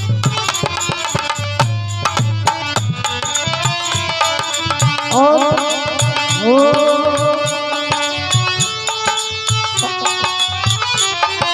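Instrumental passage of Bundelkhandi Rai folk music: fast, dense hand-drum strokes with deep bass thumps under a melody whose notes swoop up into held tones about halfway through.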